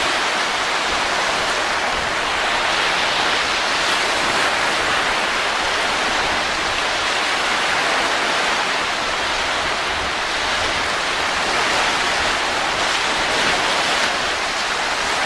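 Steady wind noise, an even rushing hiss that swells and eases slightly.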